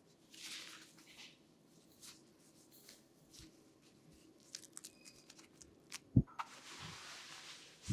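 Close-up rustling and crunching of hair being handled by a barber, with a run of sharp clicks in the middle and one loud thump just after six seconds, followed by a steady hiss.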